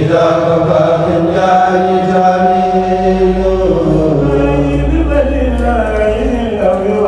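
A Senegalese Mouride kourel choir chanting a khassaïde, a devotional Arabic poem, without instruments: voices together in long held notes that glide slowly from pitch to pitch.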